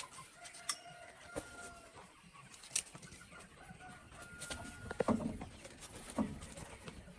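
Chickens clucking and calling, with a few short held calls and scattered sharp clicks; the loudest calls come about five seconds in.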